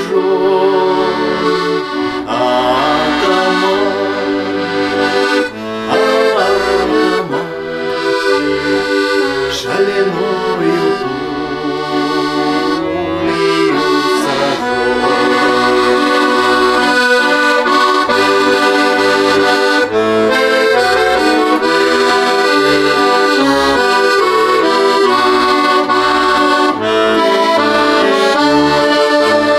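Accordion playing an instrumental passage of a folk-style tune, held chords over a pulsing bass.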